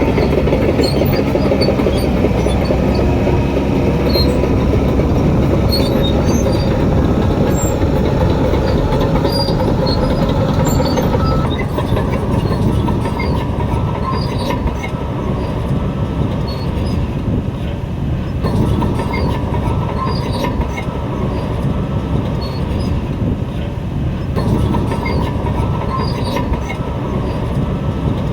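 Shantui DH17 crawler bulldozer working: diesel engine running under load with steel tracks clanking and squealing. The high squeaks thin out somewhat after about eleven seconds.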